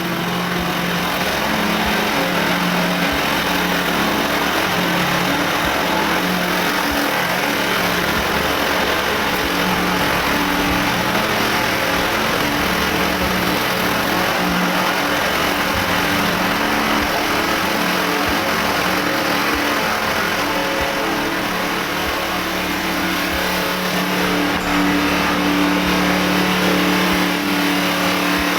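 A small engine running steadily at high speed; its note eases off a little midway and picks up again near the end.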